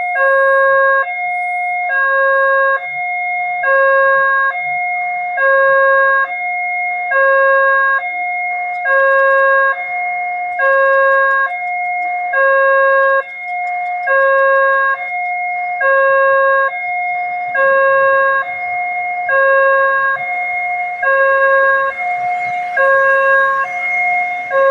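Railway level-crossing warning alarm sounding: an electronic two-tone signal alternating evenly between a higher and a lower note, warning that a train is approaching. A background noise builds up near the end.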